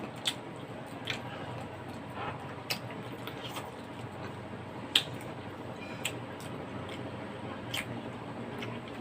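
Eating sounds: chewing with scattered sharp clicks, about seven of them and the loudest about five seconds in, over a steady low background hum.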